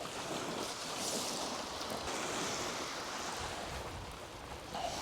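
Sea surf washing on the beach, with wind on the microphone: a steady rushing that swells a little about a second in and eases towards the end.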